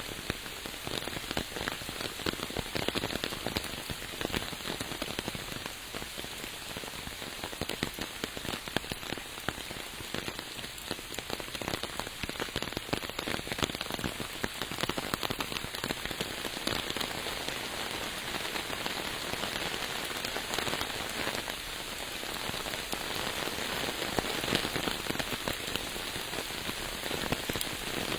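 Steady rain falling, with a dense patter of close drop impacts.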